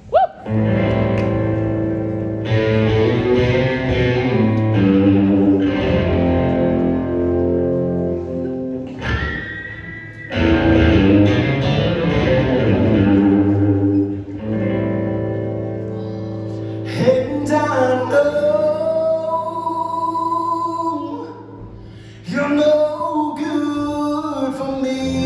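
Live country band playing the instrumental intro of a song, with guitar prominent. From about 17 seconds in, a lead melody line slides in pitch over quieter backing.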